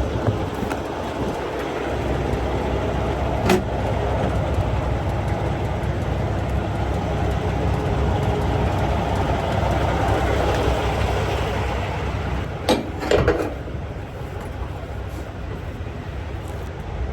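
Steady heavy-vehicle rumble that swells and then eases off. A sharp knock comes about three and a half seconds in, and a couple of metallic clanks near the end.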